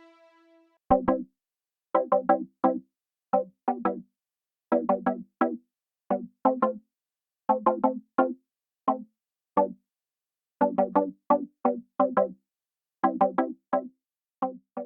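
A lone synthesizer part playing short, staccato pitched notes in a rhythmic pattern, in quick clusters of two to four with short silent gaps between them.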